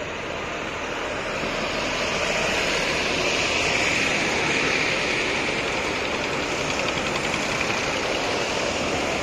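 Tractor engines running as tractors drive past, a dense engine-and-traffic noise that grows louder over the first few seconds and then holds steady.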